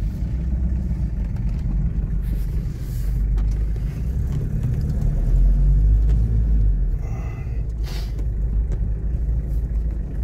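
Old Toyota's engine running and low road rumble, heard from inside the cab as it moves off through the yard; the steady low rumble grows louder around the middle.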